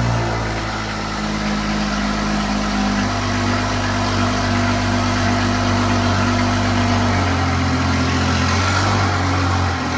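BMW 435i's turbocharged 3.0-litre straight-six running at low revs. Its engine note steps to a new pitch about three seconds in and again about seven seconds in.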